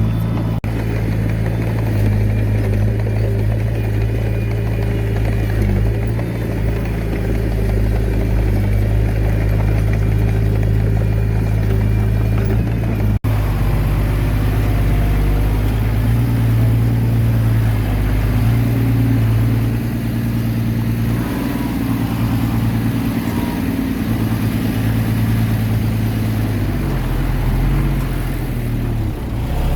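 Komatsu D21A mini bulldozer's diesel engine running under load. It breaks off for an instant about 13 seconds in, then runs on with its pitch rising and falling as the load changes.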